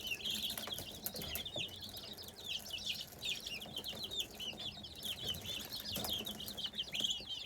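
A group of chicks peeping continuously: many short, high, falling peeps overlapping one another.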